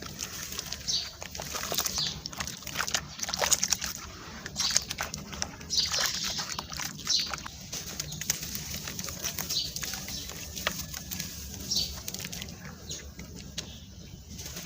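Sand-cement chunks being crushed and crumbling, with dense irregular crunching and gritty crackling.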